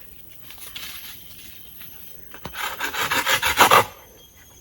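Rapid rasping, scraping strokes: a faint run about a second in, then a louder run of closely spaced strokes for about a second and a half near the end.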